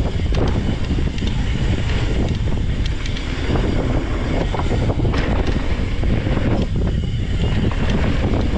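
Wind buffeting the microphone and knobby tyres rolling fast over a dirt trail as a mountain bike descends, with scattered small clicks and rattles from gravel and the bike.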